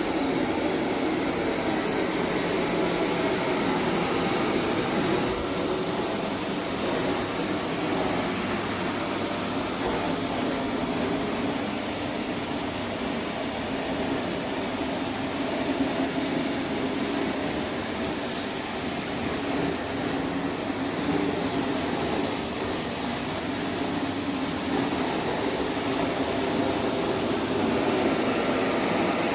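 Kärcher VC 3 Plus 1100 W bagless vacuum cleaner running steadily: an even motor and airflow noise that holds the same level throughout.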